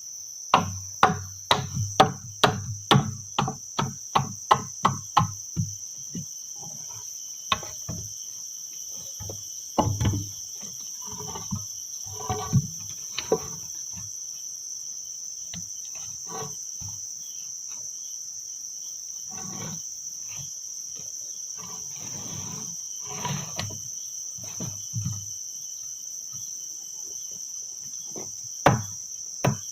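A fast run of sharp tool strikes, about two a second, stopping about five or six seconds in, followed by scattered, softer knocks and rustling. Forest insects, crickets or cicadas, keep up a steady high drone throughout.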